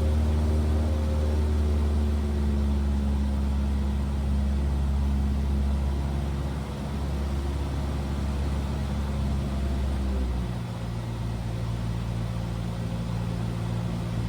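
Cessna 172R's four-cylinder Lycoming engine and propeller running steadily in flight, heard in the cabin, with its note shifting to a different pitch about ten seconds in.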